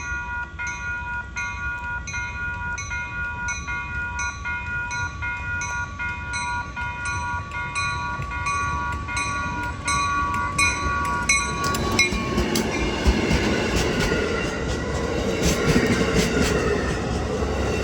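Railroad grade-crossing bell ringing at a steady, even pace. About twelve seconds in, an Amtrak passenger train arrives and passes, a loud rumble with rapid clicking of wheels over the rail joints.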